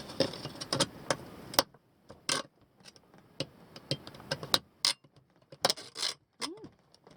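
Scattered sharp clicks, knocks and light scrapes of hand tools and metal parts being worked on a van's exhaust pipe. A light background hiss stops abruptly about a second and a half in.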